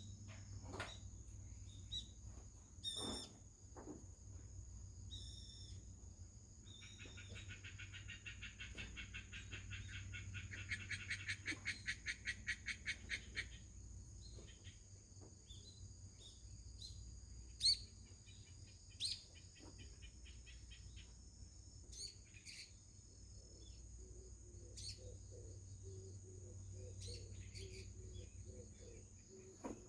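Faint birds calling: one gives a fast trill of repeated notes that lasts several seconds, starting about a quarter of the way in, and short chirps come and go around it. Under them sit a steady high tone and a low hum.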